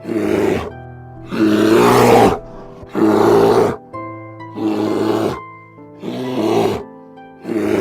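An animal giving about six rough, harsh calls in a row, one every second and a half or so, over background music with held notes.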